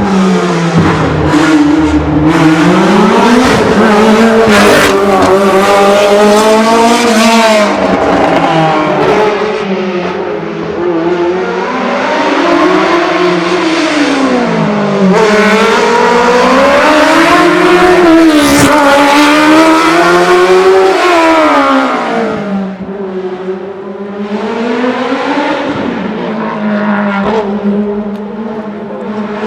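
A racing prototype car's engine revving hard through a slalom course, its pitch climbing and dropping again and again as the driver accelerates, shifts and brakes. Late on it holds a steadier, lower note for a few seconds before rising once more.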